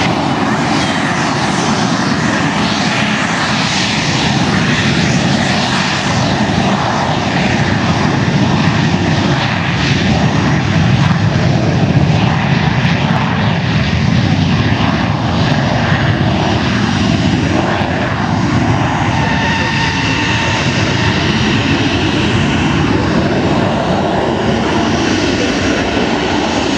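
Aircraft engine noise, loud and steady, swelling a little about halfway through, with a high whine joining in the later part.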